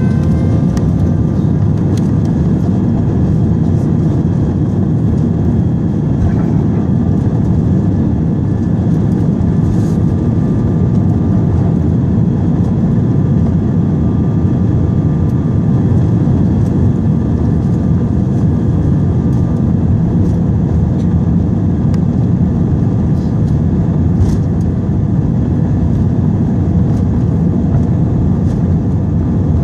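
Airbus A320 jet engines at take-off thrust: a few engine tones rise in pitch at the start, then give way to a loud, steady rushing noise, with scattered faint clicks.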